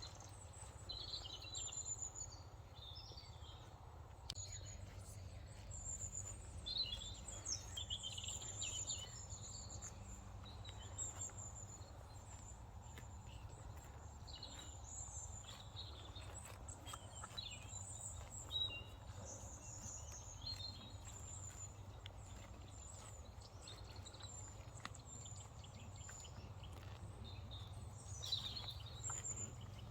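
Small birds singing and chirping, with short high calls and trills throughout, over a steady low rumble.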